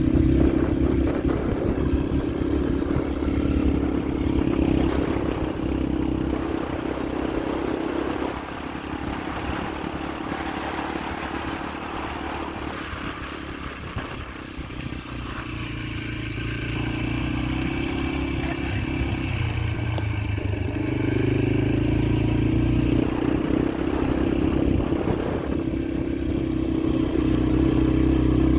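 Yamaha TT-R125LE dirt bike's single-cylinder four-stroke engine running under way. The engine note eases off about a third of the way in and picks back up in the second half.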